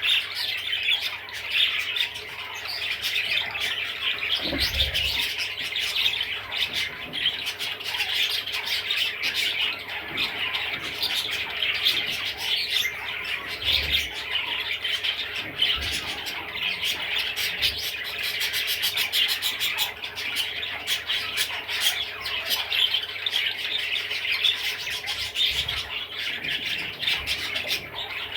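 Budgerigar chattering and warbling without pause: a dense run of chirps and squawks.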